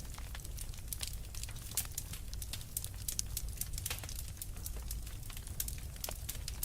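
Fireplace fire crackling, with many sharp irregular pops over a steady low rumble.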